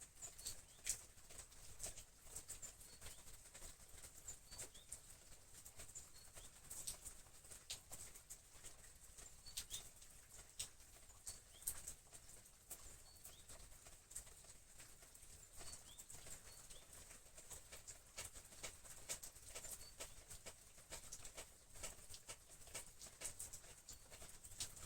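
Quiet, irregular soft clicks and taps of flower stems and leaves being handled while an arrangement is put together, over a faint steady hiss.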